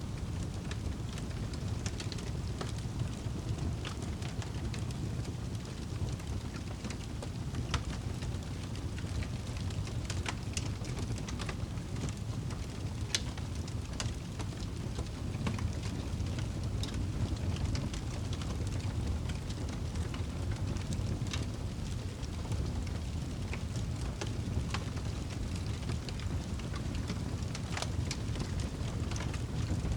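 Log fire burning in a fireplace: a steady low rumble of flames with scattered sharp crackles and pops from the wood.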